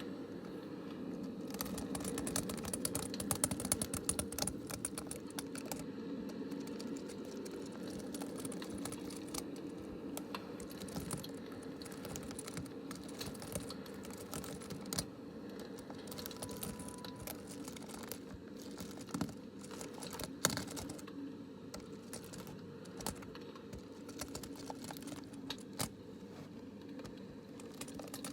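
Rapid, irregular light clicking and tapping, close up, with a few sharper clicks standing out, over steady low background noise.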